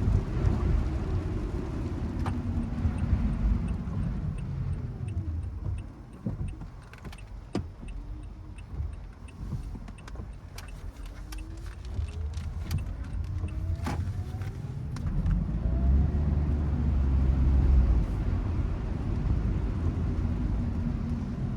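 Car driving, with steady low road and engine rumble. The rumble drops about six seconds in, then the engine pitch climbs as the car speeds up again. Scattered sharp clicks come in the middle.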